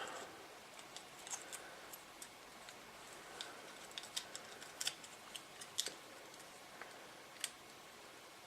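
Faint, irregular small clicks and light taps of a handheld radio's plastic and metal parts being handled and fitted together during reassembly.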